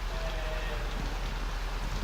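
Iteco rollover truck wash running its final brush pass: water spraying and splashing on the truck as the brushes turn, a steady hiss over a low machine hum.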